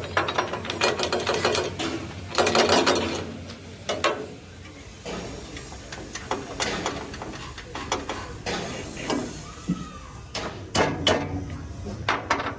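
Metalworking clatter on a truck frame: scraping and clanking of metal parts, with a quick run of sharp knocks near the end.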